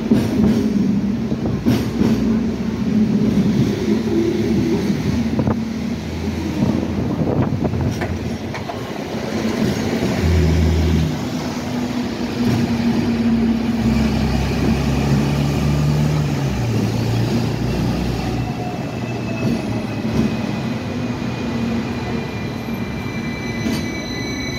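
Hong Kong double-decker electric tram running on its rails: a steady low rumble and hum, with sharp clicks from the wheels over the track. In the last few seconds a high whine falls in pitch.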